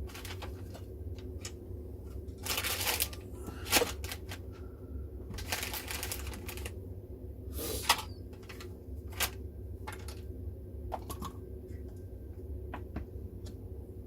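Small parts and screws being handled and set down on a workbench: scattered clicks and three short rattling bursts, two of them ending in a sharper click, over a steady low hum.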